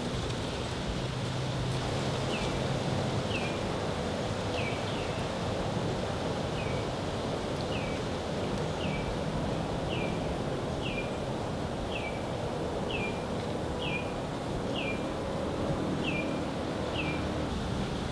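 A bird calling over and over, a short downward-slurred whistle about once a second, starting about two seconds in, over a steady outdoor rush of air and leaves.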